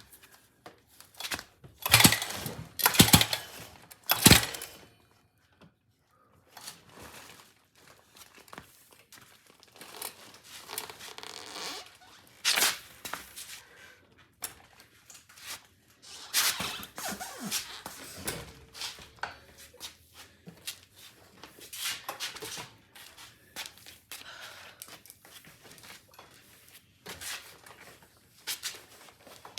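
Repeated short tugs on the stiff recoil pull-starter of a gas scooter, rasping and clunking in irregular bursts, with no engine catching. The pull cord is very tight and hard to pull.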